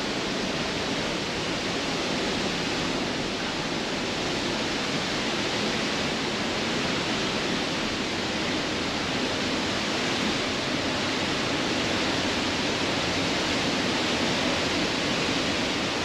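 Steady rushing of a large waterfall: an even, continuous wash of falling water.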